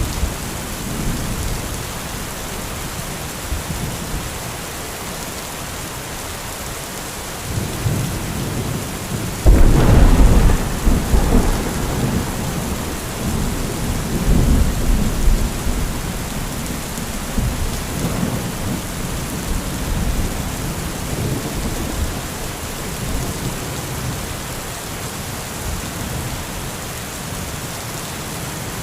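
Heavy rain falling steadily while thunder rolls. A loud crack and rumble of thunder breaks in about a third of the way through, then keeps rolling with a few further swells before dying back under the rain.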